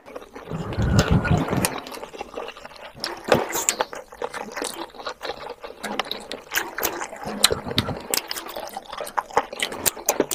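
Close-miked chewing and wet mouth sounds of a person eating spicy chicken curry with rice by hand: an irregular, steady run of small clicks and smacks.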